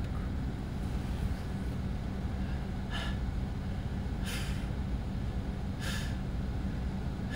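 Car engine idling, heard inside the cabin, with three short sharp breaths about three, four and six seconds in from a man fighting off nausea.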